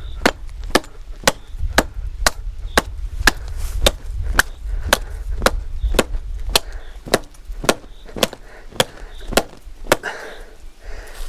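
Axe with a railway-car leaf-spring steel blade chopping into a standing tree trunk. The strokes come steadily at about two a second and stop about ten seconds in.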